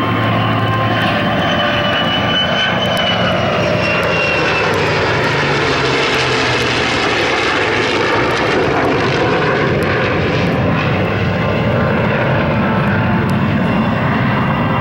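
Loud engine noise of an airshow aircraft passing low, with a high whine falling in pitch over the first few seconds and a hollow, sweeping tone as it goes by.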